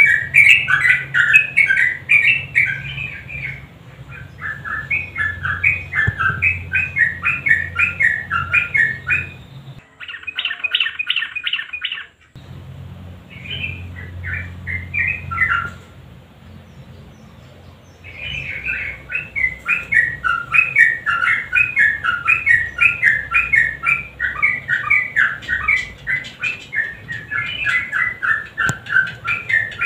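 Sooty-headed bulbul (trucukan) singing long, rapid runs of bubbling, warbling notes in the 'nguklik' style prized by bulbul keepers, with a short pause about ten seconds in and a longer lull around the middle before the song resumes. A low hum runs beneath the song.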